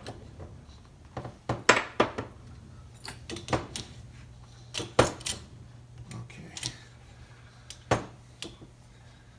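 Scattered metallic clicks and light knocks of hand tools and small engine parts being handled while a piston pin is worked out with a pin pusher, the loudest about two seconds and five seconds in.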